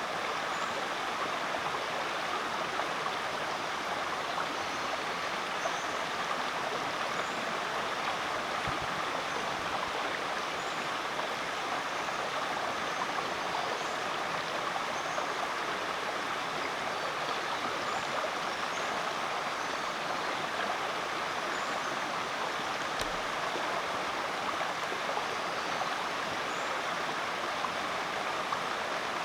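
Rainforest creek flowing, a steady rush of water, with faint high chirps repeating in the background.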